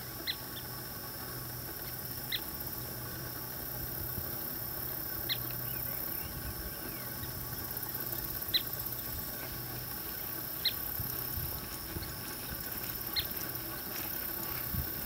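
A bird giving a short, high chirp six times, every two to three seconds, over a steady outdoor background hum.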